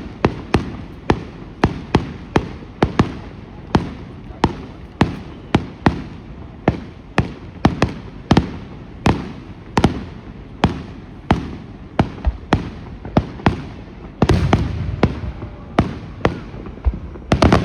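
Fireworks going off in a steady run of sharp bangs, about two or three a second, each followed by a short echo. A deeper, rumbling burst comes about 14 seconds in.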